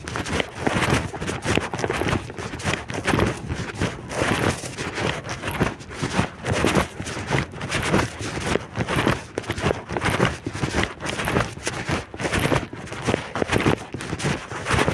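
Footsteps at a steady walking pace, about two steps a second, with strong wind buffeting the microphone.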